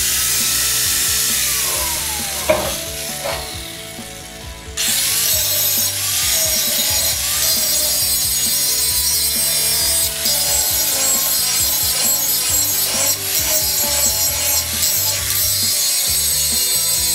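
Angle grinder grinding old weld off a steel auger shaft, a continuous harsh grinding of disc on steel. Near the start its whine falls as it spins down; about five seconds in it comes back up to full level and grinds steadily.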